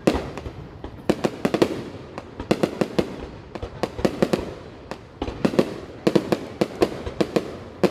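Aerial fireworks going off: rapid clusters of sharp bangs and cracks, several bursts a second in bunches, over a continuous rumble of further explosions.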